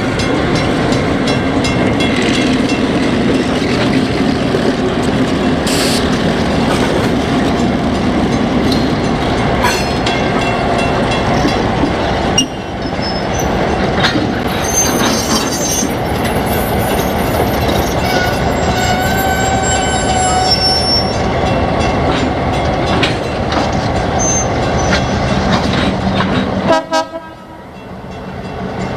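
A Southern Railroad of New Jersey train rolling past with steady wheel rumble and clatter. High metallic wheel squeals come in around the middle. The noise drops off sharply near the end.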